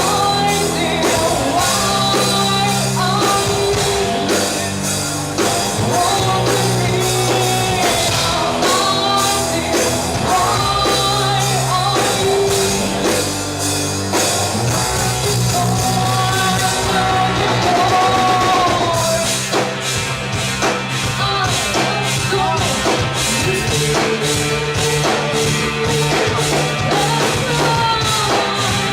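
Rock band playing live: a steady drum beat under sustained bass notes, with singing carrying the melody.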